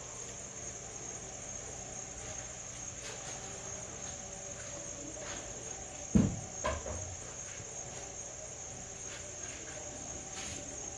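Crickets chirring steadily in a high, unbroken band, with a brief low thump about six seconds in.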